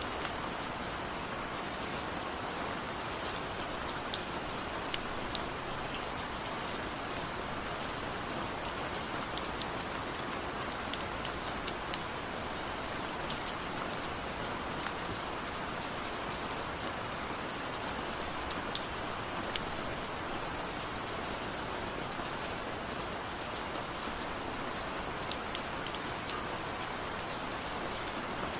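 Steady rain falling, an even hiss with scattered sharp drops pattering close by.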